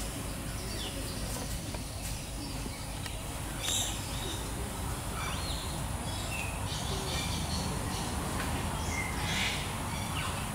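Birds chirping: scattered short calls and a few quick rising notes, over a steady low background noise.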